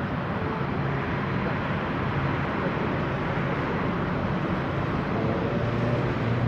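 Steady noise of jet aircraft engines running, with a low hum that swells slightly near the end.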